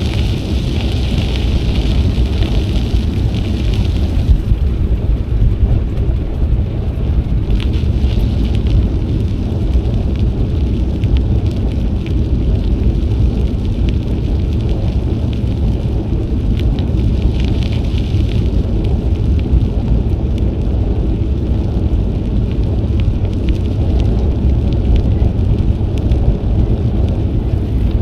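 Steady low wind rumble buffeting an action camera's microphone during a bike ride. A higher hiss comes and goes, most plainly in the first few seconds.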